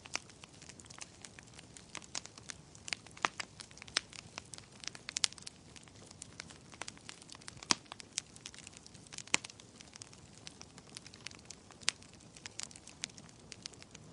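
Fire crackling in a fireplace: a steady run of irregular sharp snaps and pops over a faint hiss, with a few louder pops scattered through.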